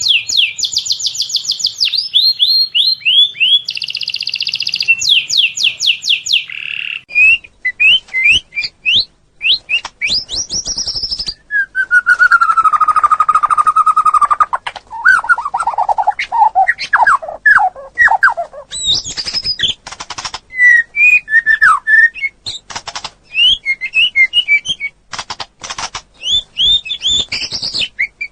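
Songbird singing a long, varied song: fast repeated trills, then lower whistled phrases sliding down in pitch about halfway through, and sharp clicking notes toward the end.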